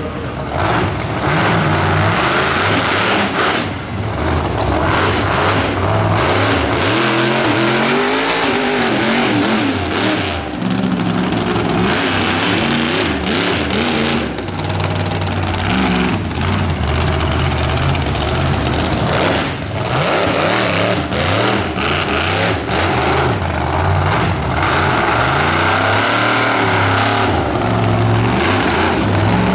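Monster truck engine revving hard and running at full throttle, its pitch climbing and falling over and over, with the noise of the truck on the track.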